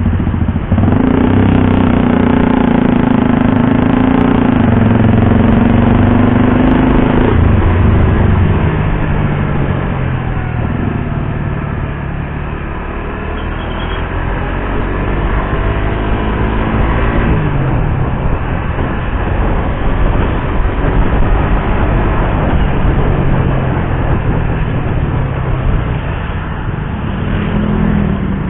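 Suzuki GSX-R150's single-cylinder engine running under way, its pitch holding steady, dropping back about seven seconds in and again around seventeen seconds in, and climbing between as the bike accelerates through the gears, over a steady rush of wind and road noise.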